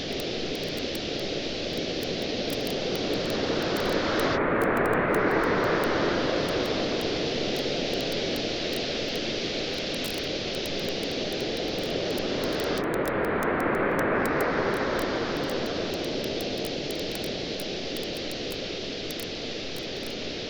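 Waves washing onto a beach, swelling twice about nine seconds apart, mixed with a crackling wood fire that gives off frequent small pops.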